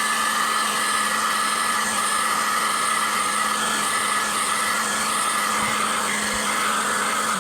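Electric hot-air blower running steadily with a whine, heating the phone's glass screen to soften its adhesive before the glass is lifted off. It cuts off abruptly at the end.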